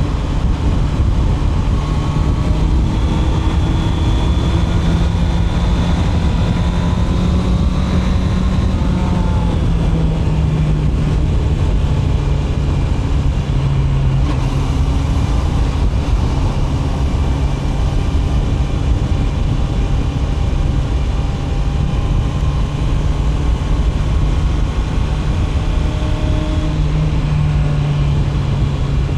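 Honda CB650R's inline-four engine running at steady cruising revs, its pitch easing down a little about a third of the way in and rising briefly again near the end, under a constant rush of wind noise.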